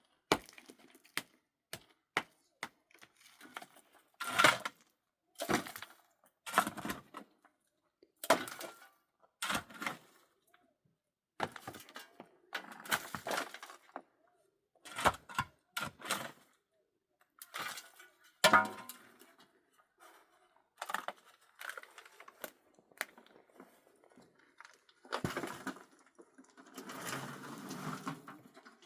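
Irregular knocks, thunks and short scrapes of hard objects being handled and set down, roughly one every second or two, with a longer scraping rustle near the end.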